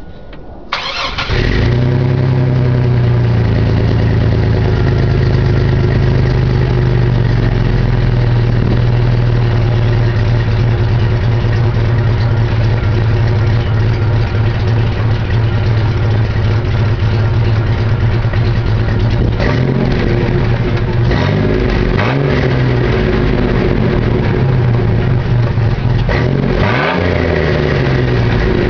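Built Chevy 4.3 Vortec V6 with a 270 cam, no catalytic converter and a Flowmaster 40 series muffler starting up about a second in and settling into a steady idle. It is revved and let fall back several times in the last third.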